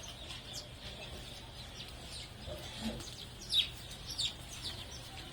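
Sparrows chirping: many short, quick chirps at irregular intervals, the loudest about three and a half seconds in.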